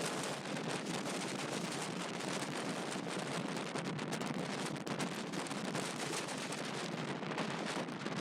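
Strong wind blowing across the microphone: a steady dense rush broken by many quick crackling pops.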